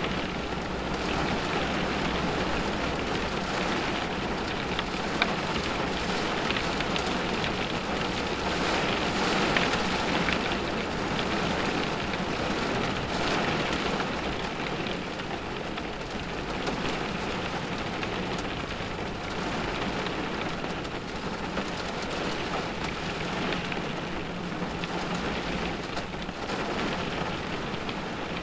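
Rain falling on a car's roof and windows, heard from inside the cabin: a steady, even hiss of drops with a couple of louder single drop hits.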